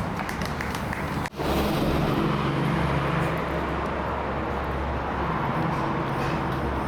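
A steady low engine hum over a haze of street noise, broken once by a sudden split-second dropout a little over a second in.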